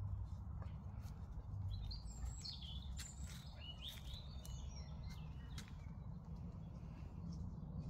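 Small birds chirping in quick rising and falling calls for a few seconds in the middle, over a steady low rumble, with scattered light clicks.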